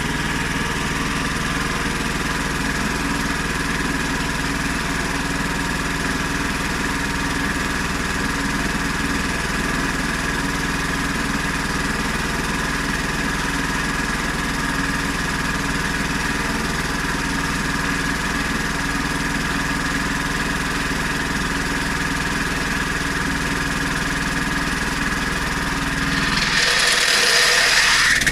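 The Honda GX390 petrol engine of a homemade portable sawmill running steadily at one speed. Near the end the sound grows louder and brighter, with a hiss rising over it.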